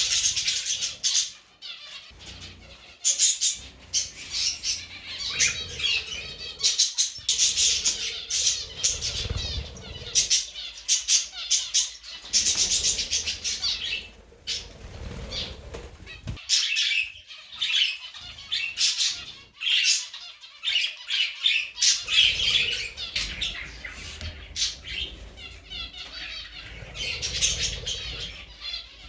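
A group of birds chirping and squawking in quick, overlapping bursts, on and off throughout.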